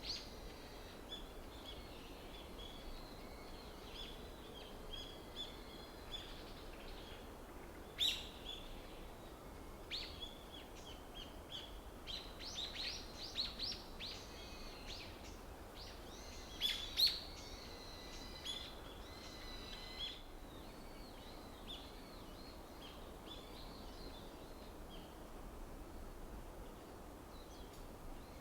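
Small wild songbirds chirping and calling, in many short notes and phrases, with sharper, louder calls about eight seconds in, in a cluster around twelve to fourteen seconds and again around seventeen seconds, over a steady faint low background noise.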